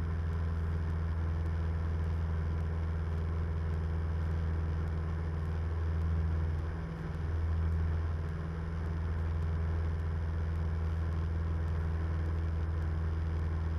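Cabin drone of a Cessna 172M's four-cylinder Lycoming engine and propeller in flight, a steady low hum during the descent, dipping briefly about halfway through.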